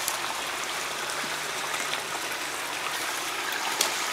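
Small stream running steadily, water trickling over little cascades between ponds, with a few faint clicks.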